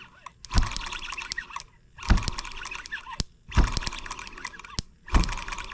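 M25 sideshaft engine being turned over in four bursts about a second and a half apart, each a low thump and a quick run of sharp clicks. The ignition is arcing at a faulty spark plug boot instead of firing through the plug.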